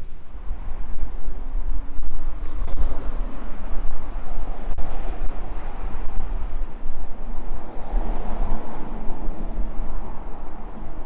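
Wind buffeting the microphone: a steady low rumble with gusty noise that swells twice.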